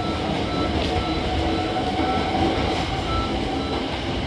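Hankyu 5100 series electric train pulling away from a station, its motors and wheels running with a steady rumble of rail noise and faint tones from the running gear.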